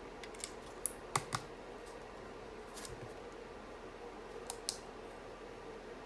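A few scattered sharp clicks from a UT47.2 40% mechanical keyboard being worked on, as keys or switches are pressed. There are about seven in all: the two loudest come close together a little after a second in, and two more come near the end. A faint steady hum lies underneath.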